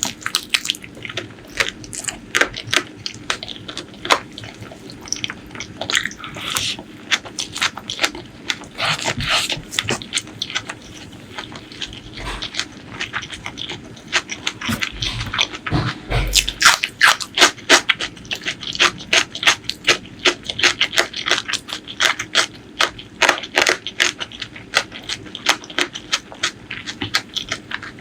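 Close-miked wet eating sounds of a meal of spicy chicken feet and curry: chewing, lip smacking and sucking, many quick wet clicks, growing busier and louder about halfway through.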